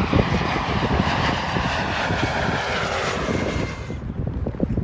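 Airliner passing low overhead, its engine noise loud at first and fading away about four seconds in.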